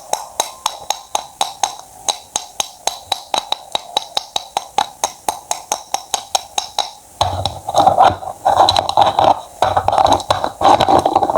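Knife chopping on a cutting board in quick, even strokes, about four taps a second. About seven seconds in it gives way to louder, denser crunching cuts.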